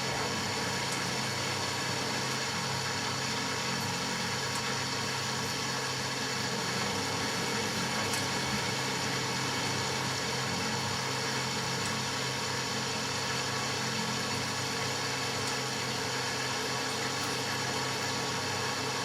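Matura Autostatic 850 washing machine running with a steady motor hum and vibration, unchanging throughout.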